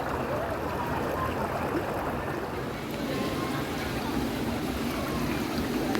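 Stream water running steadily, a constant even rush of flowing water.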